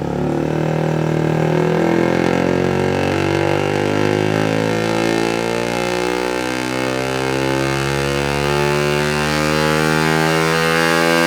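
Suzuki GSX-R150's single-cylinder engine running through a Yoshimura R77 full-system exhaust at full throttle on a dyno. Its pitch climbs steadily for about eleven seconds, then falls away suddenly at the end as the throttle closes.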